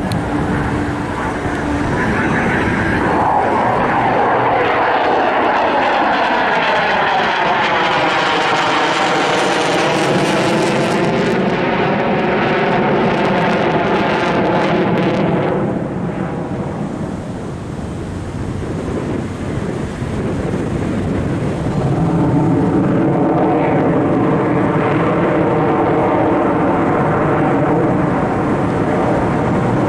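Airplane flying past at an airshow, its loud engine noise swelling and sweeping in pitch as it passes. It fades a little about halfway through, then comes in again with a second pass or another aircraft.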